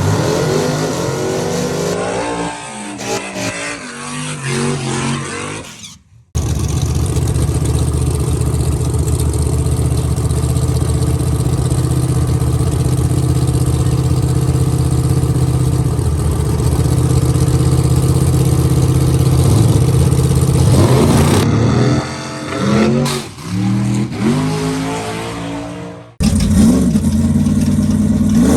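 Drag-race car engines revving up and down, then a long stretch of an engine held at steady revs, with more revving later. The clips are joined by abrupt cuts.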